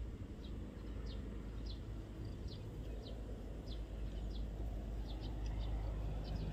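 A small bird calling in short, quick falling chirps, about two a second, over a steady low rumble.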